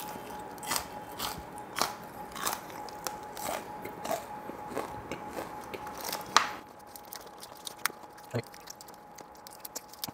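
Close-miked crunchy chewing of a fried onion ring, a crisp crunch about every half second for the first six seconds, then fainter clicks and crinkles near the end. A faint steady ceiling-fan hum runs underneath.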